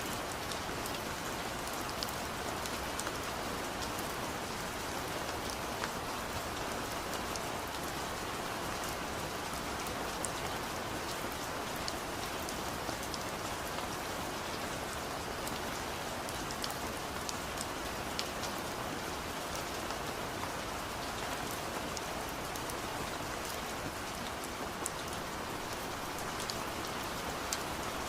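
Steady rain falling, an even hiss with scattered sharp drop ticks that keeps the same level throughout.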